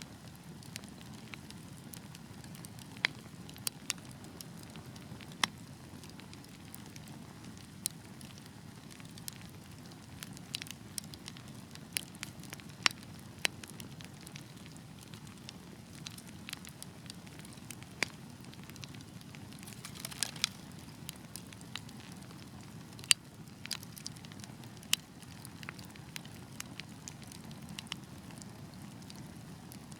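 Wood fire burning with a steady low rumble and irregular sharp crackles and pops from the logs, a few of them much louder, with a short flurry of crackling about twenty seconds in.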